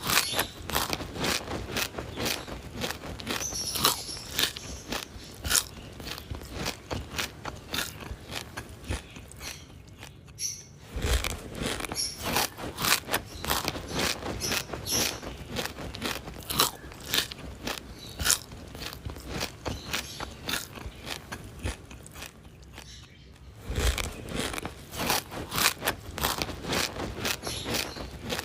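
A pet bird's beak nibbling and crunching, many quick irregular clicks with a couple of short pauses.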